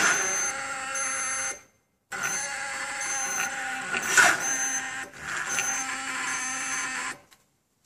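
Starter relay of a Stels Enduro 400 (Xingyue XY400) chattering with a steady buzz in three stretches as the starter button is held, while the engine fails to crank: on the jump from a car the engine makes one turn and then the relay starts chattering, even though the relay is new.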